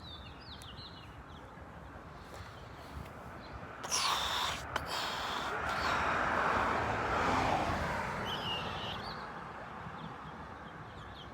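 A vehicle passes, its noise rising to a peak about seven seconds in and then fading, just after a short loud noise about four seconds in. Birds chirp a few times.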